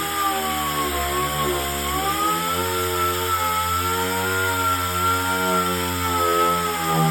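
Handheld power sander running against the car's sheet-metal body, knocking down welds; its whine sags and climbs in pitch as it is pressed onto the panel and eased off.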